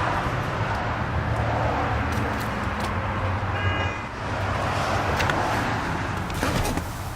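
2001 Mercury Cougar's 2.5-litre Duratec V6 idling steadily, with a few light clicks and a short high beep about halfway through.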